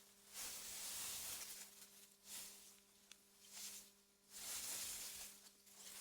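Soft wind gusting through meadow grass: faint airy hissing that swells and dies away in waves every second or two, over a faint steady low hum.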